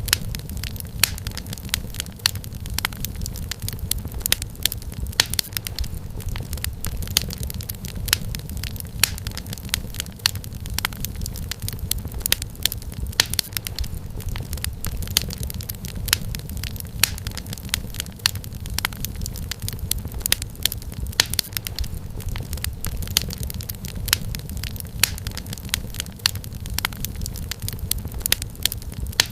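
Wood fire crackling steadily: many sharp irregular pops and snaps of burning firewood over a low rumble of the flames.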